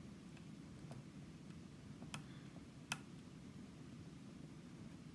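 A few faint, light metallic clicks of lock-picking tools working inside a Sargent Signature lock cylinder. The two sharpest come about two and three seconds in, over a low room hum.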